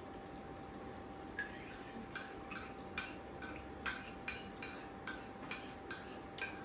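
Irregular light clicks and clinks of plates and cutlery at a meal, one to three a second, some with a short ring, over a faint steady hum.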